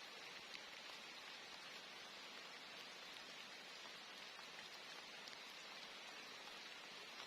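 Steady rain falling, a soft even hiss with scattered drop ticks.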